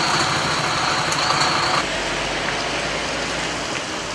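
Steady vehicle engine and road noise, with no single event standing out. The sound changes abruptly about two seconds in.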